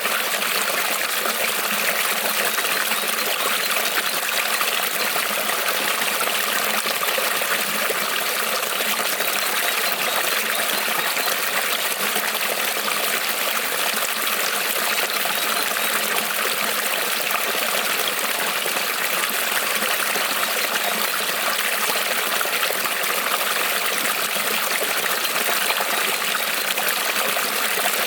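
Shallow creek rippling and trickling over stones, a steady even rush of running water.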